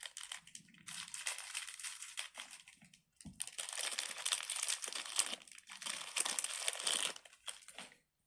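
Plastic packaging crinkling as it is handled, in irregular bursts with a short pause about three seconds in, stopping near the end.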